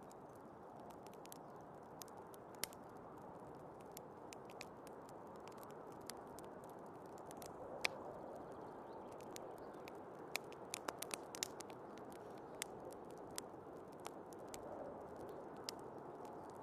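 Wood fire crackling with irregular sharp pops, the loudest about eight seconds in, over a steady low rush of storm wind.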